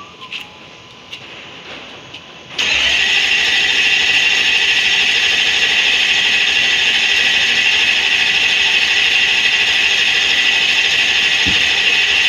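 Engine being cranked by its starter motor without catching: a steady cranking sound that starts suddenly a couple of seconds in and runs on without the engine firing. It doesn't even sound like it wants to start.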